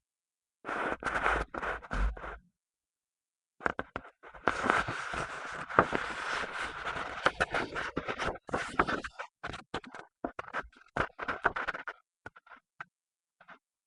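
Writing by hand on paper: a pen scratching in short, irregular strokes, with a pause of about a second near the start.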